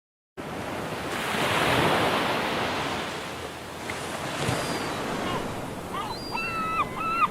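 Sea waves washing in, swelling about two seconds in and then ebbing. From about six seconds, a bird starts calling in quick repeated notes.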